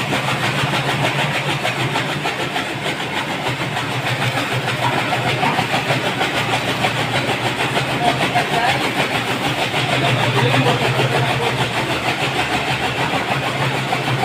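Motor-driven chaff cutter running steadily: a continuous mechanical hum with a fast, even chatter over it.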